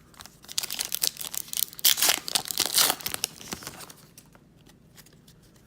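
A trading-card pack wrapper being torn open and crinkled by hand, a crackly tearing run that is loudest about two to three seconds in, then dies away.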